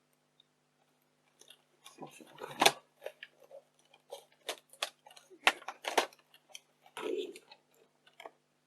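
Irregular plastic clicks and knocks from a Yashica Video 8 camcorder being handled, starting about a second and a half in, over a faint steady hum.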